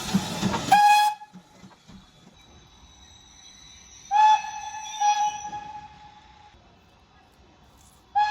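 Steam locomotive whistle blowing one steady note in short blasts: one about a second in, two close together around four to five seconds in, and another at the very end. A burst of rushing noise comes just before the first blast.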